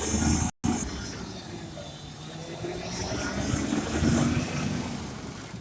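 Recycling truck engine running, swelling louder about four seconds in, with a brief break about half a second in.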